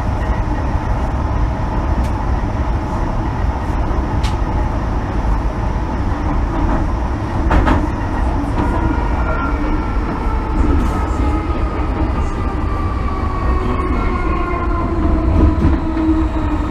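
MTR M-Train running, heard from inside the car: a steady rumble of wheels on track. From about halfway, the whine of the traction motors falls slowly in pitch as the train slows.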